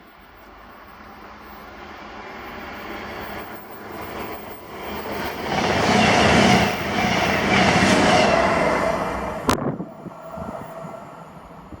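CrossCountry Voyager diesel multiple unit passing at speed: its noise builds over several seconds to a loud peak as it goes by. About nine and a half seconds in, the sound drops abruptly with a sharp click, then fades away.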